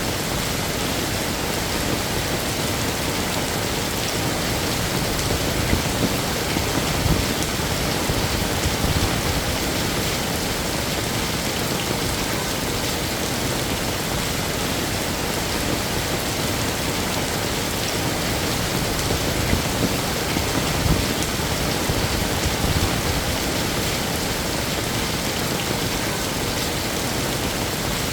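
Heavy rain falling steadily, an even hiss and patter, with two spells of low rumbling swelling up, about a quarter of the way in and again about two-thirds through.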